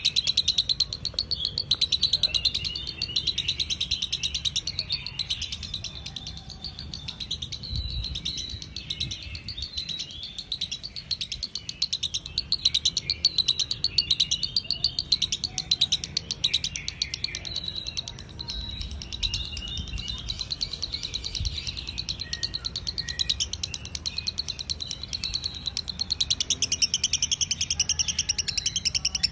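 Lovebird chattering song: a dense, unbroken run of rapid high chirps. This is the long non-stop chatter that keepers call 'konslet'.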